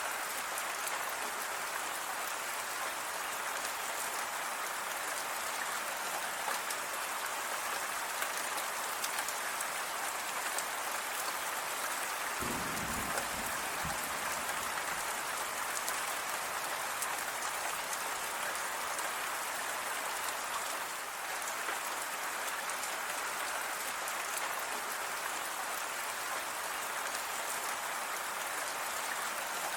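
Steady rain falling, a dense patter of drops on a surface. About halfway through there is a brief low rumble lasting about a second and a half.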